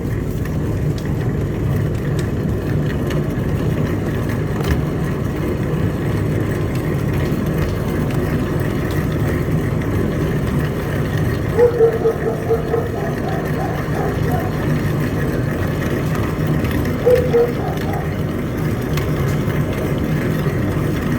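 Electric exhaust fan running with a steady hum and rush of air. A couple of short pitched sounds rise above it about midway and again later.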